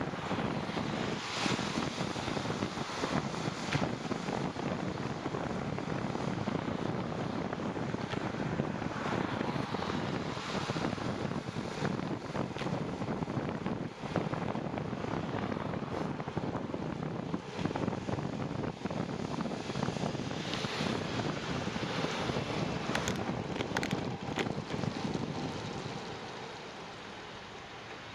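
Wind rushing over the microphone while riding a bicycle, with steady tyre and road noise. A few light clicks come late on, and the noise eases off near the end as the ride slows.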